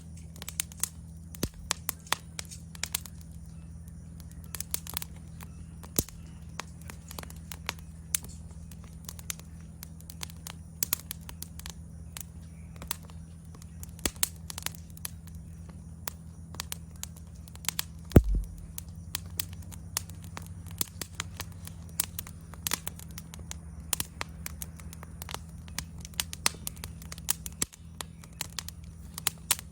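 Wood fire crackling with frequent sharp pops, over a steady high insect trill. One louder thump about 18 seconds in.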